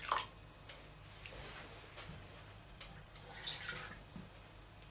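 Faint sound of water being poured into a bowl of sugar for a sugar syrup, with a few light clicks.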